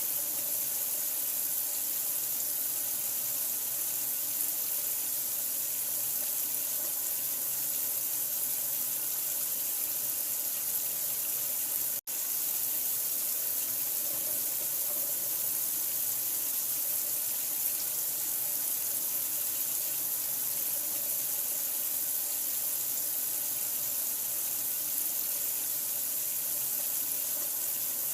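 Steady running water, an even hiss that does not change. It cuts out for an instant about twelve seconds in, then carries on as before.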